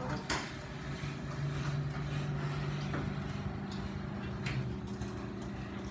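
LiftMaster belt-drive garage door opener running, its motor giving a steady hum as it moves the door.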